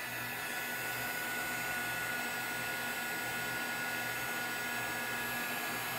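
Embossing heat tool running steadily, its fan blowing with a low motor hum, as it heats and melts opaque bright white embossing powder.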